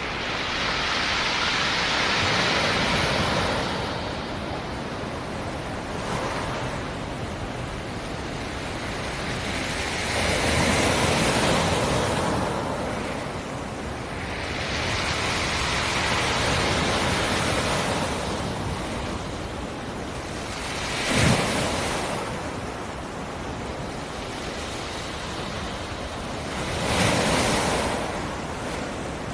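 Black Sea surf: waves rolling in and breaking on the shore in slow swells every several seconds, with two sharper, louder crashes in the last third.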